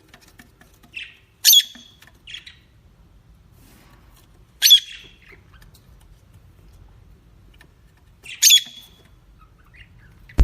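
Peacock calling: three loud, short, high-pitched squawks about three to four seconds apart, each with a softer note beside it.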